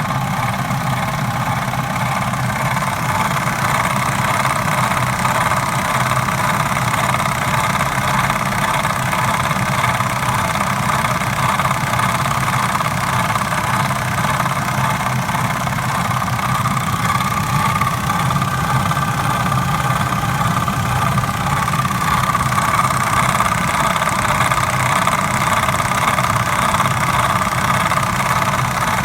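Vauxhall Corsa C engine running steadily, carrying a strange noise that the owner cannot identify. A higher-pitched part of the sound grows a little stronger a little past halfway.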